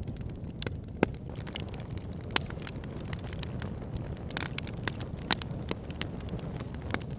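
Wood fire burning in a fireplace: a steady low rumble of flame with frequent sharp crackles and a few louder pops from the burning logs.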